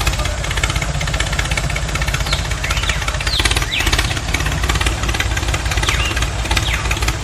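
An engine running steadily at idle with a fast, even knocking beat. Short high-pitched sliding chirps sound over it several times.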